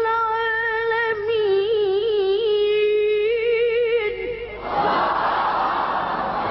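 A child's voice reciting the Quran in melodic tajweed, holding one long ornamented note at the end of a verse. About four and a half seconds in it stops and a crowd breaks into a loud mass of voices.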